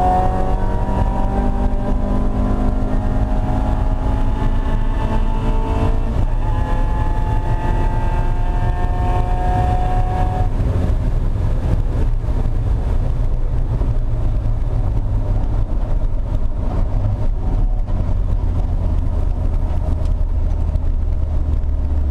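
Mazda Miata race car's four-cylinder engine heard from inside the stripped cabin, climbing in pitch under acceleration, dropping once about six seconds in as it shifts up, then climbing again. After about ten seconds the engine note fades and a steady low rumble of road and wind noise remains.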